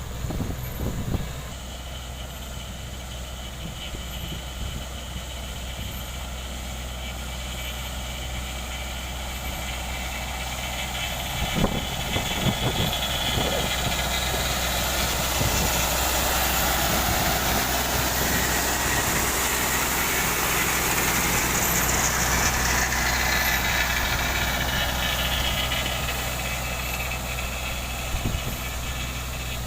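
Diesel engines of heavy road-construction machinery running steadily, with a few sharp knocks near the start and about twelve seconds in. The machine noise grows louder through the middle and eases off toward the end.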